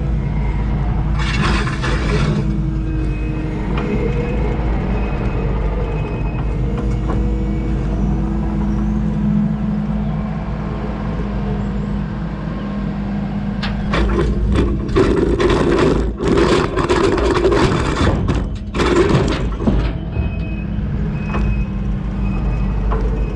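Skid steer's diesel engine running steadily under load. About a second in, and again from about 14 to 20 seconds, come bursts of harsh scraping and crunching as the bucket works the broken concrete.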